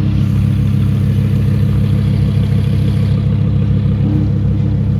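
Lamborghini engine idling with a steady, deep, loud drone.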